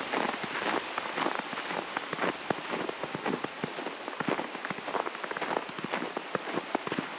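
Dense, irregular patter of falling water drops, rain-like, hitting surfaces over a steady hiss.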